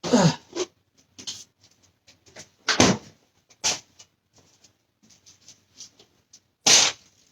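Kitchen handling noises: scattered knocks, clicks and rustles, with louder thumps about three seconds in and near the end.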